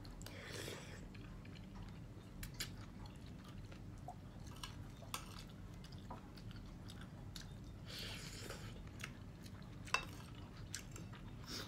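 A man chewing mouthfuls of rice and vegetable soup, with scattered light clicks of a spoon and fork on a plate. Two longer breathy noises come near the start and about eight seconds in.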